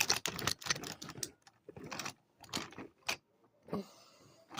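Wooden toy trains clattering and clicking as they are handled and moved about: a string of irregular knocks.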